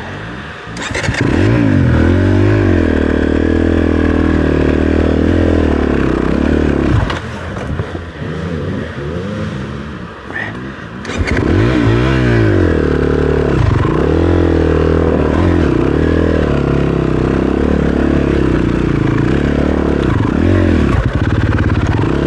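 Dirt bike engine revving up and down in repeated blips of the throttle. It eases off for a few seconds just before the middle, then picks up again with more revving.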